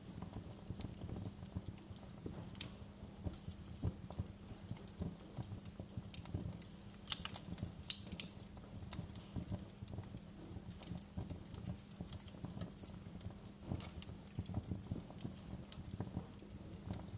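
Fireplace fire crackling: a dense run of soft low pops with a few sharper, brighter snaps, the clearest a little after two seconds and around seven to eight seconds in.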